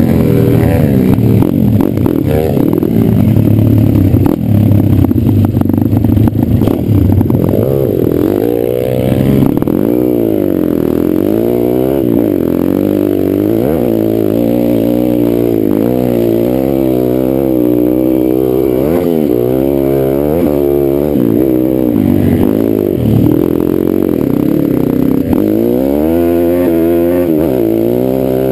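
Single-cylinder four-stroke dirt bike engine running under load, its pitch rising and falling every second or two as the throttle is opened and closed. It comes with sharp knocks over the first several seconds.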